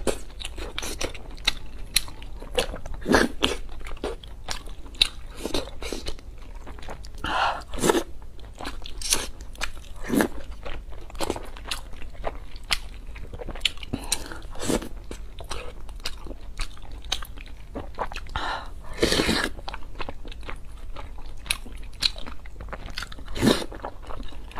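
Close-miked chewing and wet mouth sounds of a person eating sauce-covered boiled dumplings: many quick smacks and clicks, with a few louder, longer mouth sounds every few seconds.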